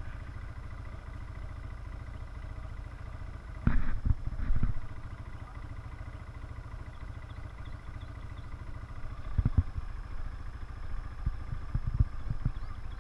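Four-wheeler (ATV) engine running steadily with a low hum. Several loud thumps or knocks come in a cluster about four seconds in and again in the last few seconds.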